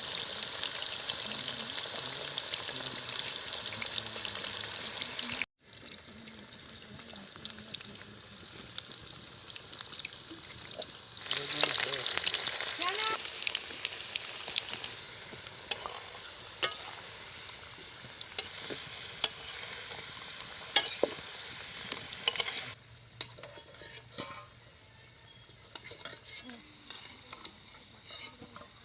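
Potatoes frying in hot oil, a loud sizzle with the sharp clicks of a spatula stirring in the pan. The sizzle cuts off abruptly about five seconds in and comes back in loud stretches, then dies down to scattered clicks near the end.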